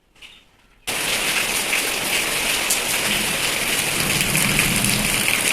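Steady, heavy rain falling, starting abruptly about a second in after a near-quiet moment with a faint, short high sound.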